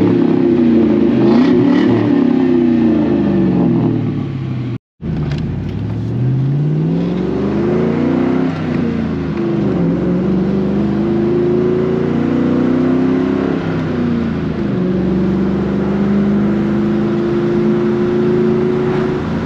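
2000 Mustang GT's 4.6-litre V8 running through a Flowmaster American Thunder cat-back exhaust. It revs up and down several times in the first few seconds, cuts out briefly about five seconds in, then climbs again and settles to a steadier engine speed with slow pitch changes.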